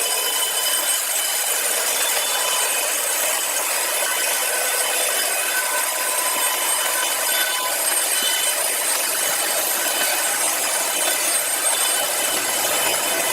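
Saw cutting steadily through a large log of timber: an unbroken rasping hiss with faint whining tones, with no back-and-forth stroke rhythm.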